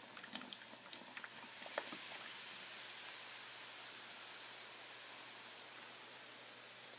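Baking soda and vinegar fizzing as they react inside a pumpkin: after a few light clicks and knocks, a steady high fizzing hiss builds about two seconds in and slowly fades.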